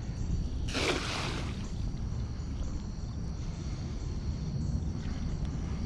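Steady low rumble of wind buffeting the microphone outdoors, with one brief hissing burst about a second in.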